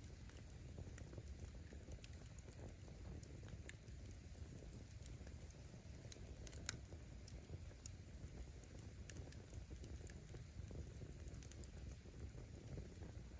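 Wood campfire burning: a low steady rumble with scattered faint crackles and pops of firewood, one sharper pop about seven seconds in.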